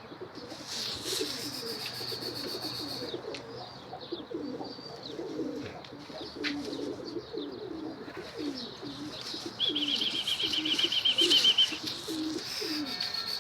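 Domestic pigeons cooing over and over in a loft, with high, thin bird chirps. About ten seconds in, a fast high trill of rapidly repeated notes lasts about two seconds and is the loudest sound.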